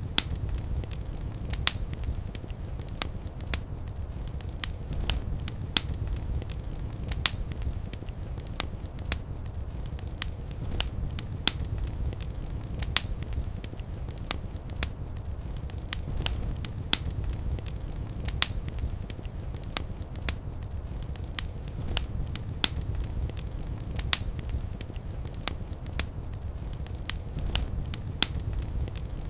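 Wood fire burning in a fireplace: a steady low rumble of flames with sharp crackles and pops coming irregularly, several each second.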